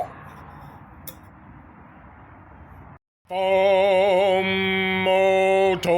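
Faint steady hiss for about three seconds, then the sound cuts out briefly and a man starts singing long held notes, with a wavering vibrato on one of them.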